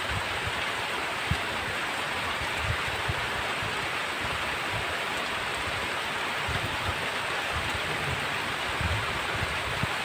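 Heavy rain falling steadily, a dense even hiss, with a few brief low rumbles underneath.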